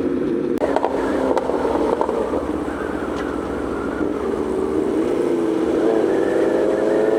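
Aprilia Tuono V4 motorcycle engine running, its pitch rising steadily from about four seconds in as the bike accelerates.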